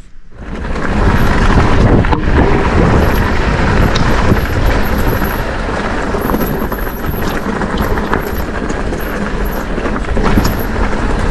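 Wind noise on the camera mic and tyre rumble from a mountain e-bike riding down a rough path, loud and steady. A faint, high, on-and-off squeal sits on top.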